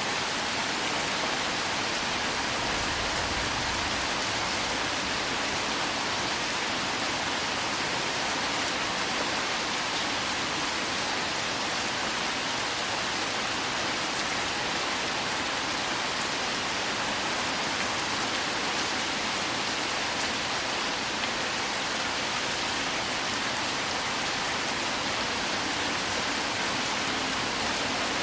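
Heavy downpour: a cloudburst of rain pouring down in a dense, steady hiss.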